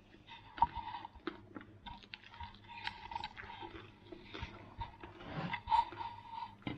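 A person chewing a mouthful of fresh salad of leaves and cucumber, with irregular crunching.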